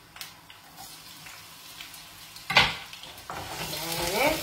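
Onion, garlic and chili frying in oil in a pan, a sizzle that grows louder in the last second or so. About two and a half seconds in there is one sharp knock.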